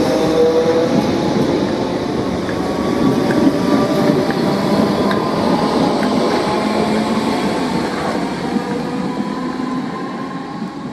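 Train running past at close range: a steady rumble of wheels on rail with a few faint steady tones and occasional light clicks, easing off slightly near the end.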